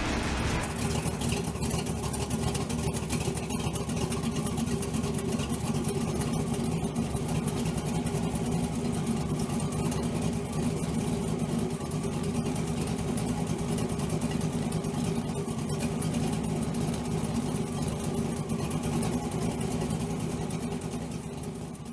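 A V8 engine swapped into a Pontiac Fiero, idling steadily.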